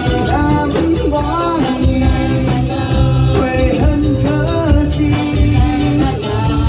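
Live band playing an upbeat song, a singer's melody gliding and holding notes over a steady beat of drums and bass.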